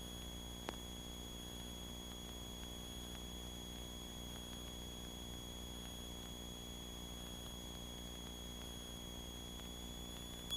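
Faint steady hum and hiss on a light aircraft's intercom audio feed between radio calls, with a thin high tone over it and a single click about two-thirds of a second in.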